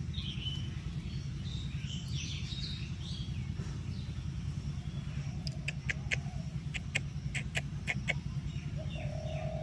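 Small birds chirping, then a quick run of about a dozen sharp clicks in the middle, and a pigeon cooing near the end, over a steady low rumble.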